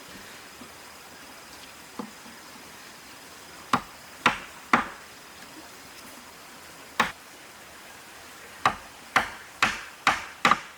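A series of sharp knocks on wood, like a hammer or mallet striking: one faint tap, then nine loud blows, scattered at first and then five in quick succession about half a second apart near the end, each ringing briefly.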